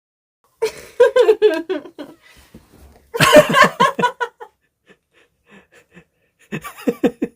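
Giggling and laughter in three short bursts of quick pulses: about half a second in, about three seconds in, and near the end.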